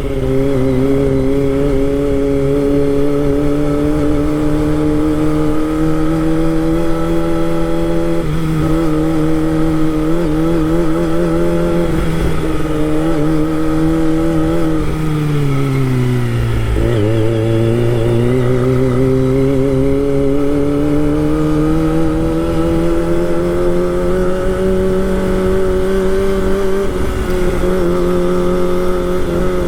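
Kawasaki Ninja ZX25R's 250 cc inline-four engine running at steady revs while ridden. About halfway through its pitch drops over a couple of seconds as it slows, then climbs gradually again, with a brief dip near the end.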